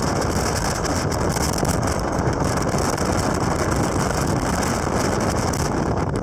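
Classic car driving along, a steady rush of engine and road noise heard from on board.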